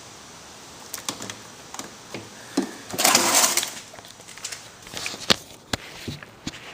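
Handling noises: scattered clicks and knocks, with a brief scraping rustle about three seconds in, as a leaf blower is got ready for starting. No engine is running.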